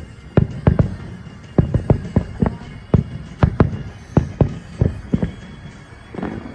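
Aerial firework shells bursting in quick succession, a rapid barrage of deep booms about three a second that stops about five seconds in.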